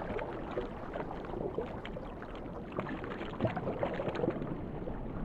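Churning, splashing water full of small crackling splashes and bubbles, from a Cape fur seal feeding on a shoal of sardines.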